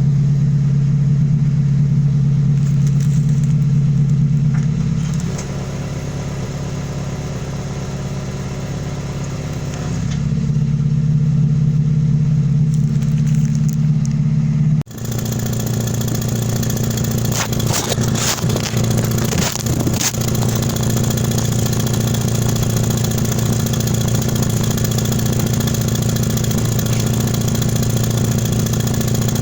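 Mazda 6 engine idling through an exhaust fitted with an electronic cutout valve. The exhaust note drops quieter about five seconds in and comes back louder around ten seconds. After a brief dip near the middle it turns louder and raspier, as the cutout is switched between closed and open.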